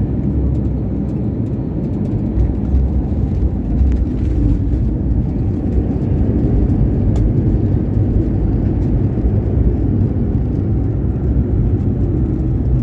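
Steady low rumble of a jet airliner.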